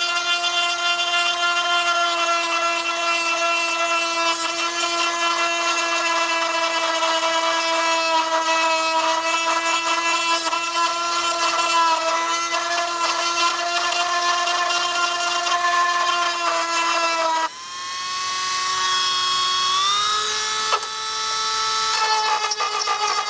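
Dremel rotary tool whining steadily as it grinds a groove along a crack in a plastic motorcycle fairing. About 17 seconds in the sound drops suddenly, then the tool comes back and steps up to a slightly higher pitch.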